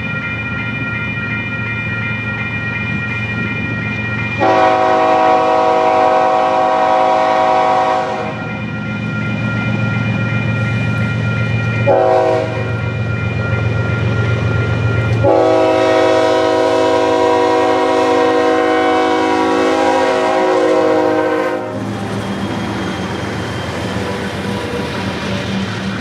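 Freight diesel locomotive's multi-note air horn sounding three blasts: long, short, then long. The engine rumbles steadily underneath.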